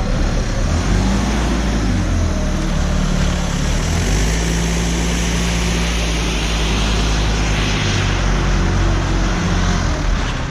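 A vehicle running steadily, a low engine drone over road noise, its pitch shifting slightly about four seconds in and again near eight seconds.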